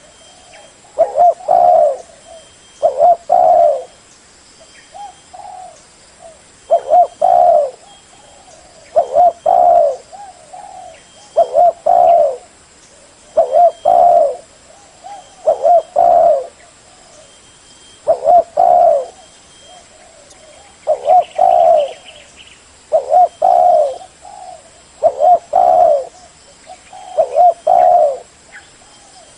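Spotted dove cooing: its short phrase of a few coo notes repeated over and over, about every two seconds.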